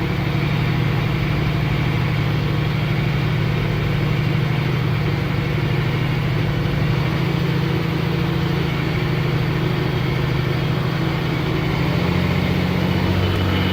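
A loaded truck's engine running steadily in gear, in one of the gear positions the transmission keeps jumping out of. The engine note shifts slightly near the end.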